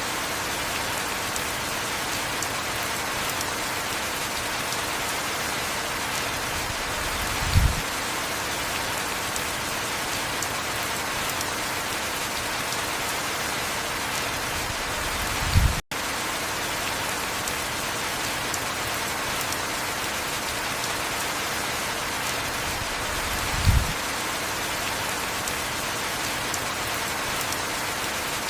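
Heavy rain falling steadily. A short low thump comes about every eight seconds, three times, and the sound cuts out for an instant just after the middle one.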